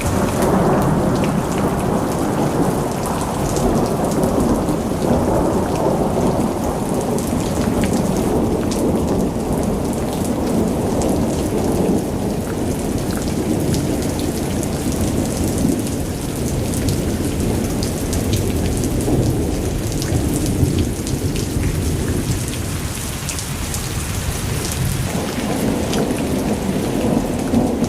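Thunderstorm: steady rain pattering on surfaces under long rolling thunder. The rumble is heaviest in the first half, eases off about two-thirds of the way through, then swells again near the end.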